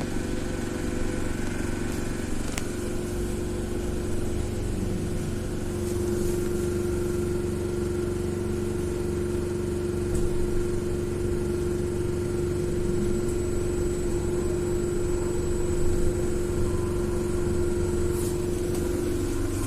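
BKM 42003A trolleybus riding, heard from inside the cabin: the electric traction drive's steady whine over tyre and road rumble.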